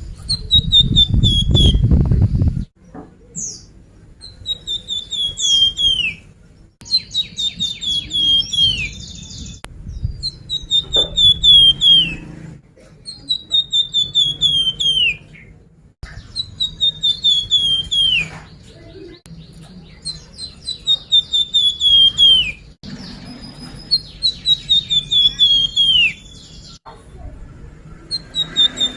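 Flamboyan bird song as used for pancingan (a lure recording to get caged birds singing): the same phrase repeats about every four seconds, a quick run of chirps sliding down in pitch, mixed with rapid ticking notes. A loud low rumble runs under the first two and a half seconds.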